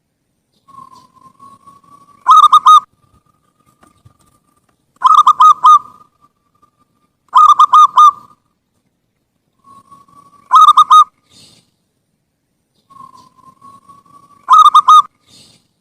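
Zebra dove (perkutut) cooing its song: five phrases, each a soft drawn-out note that runs into a loud quick burst of staccato coos, repeated every two to four seconds.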